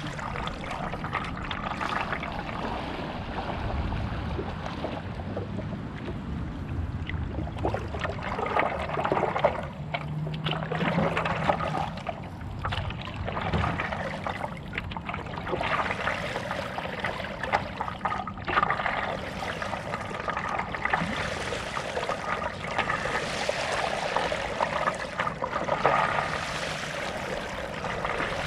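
Stand-up paddle strokes through lake water, with water splashing and trickling off the paddle blade, swelling every two to three seconds.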